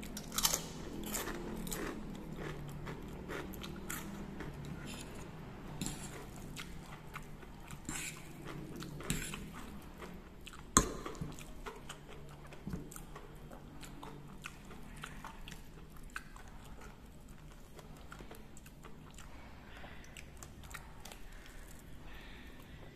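Close-up eating sounds: crisp crunching as a seroja cracker is bitten and chewed, densest in the first couple of seconds, giving way to softer chewing of noodles. One sharp click stands out about eleven seconds in.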